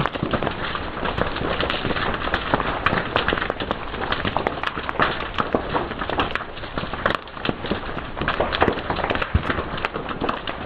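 Fire crackling and popping: a dense, irregular run of sharp snaps over a steady hiss.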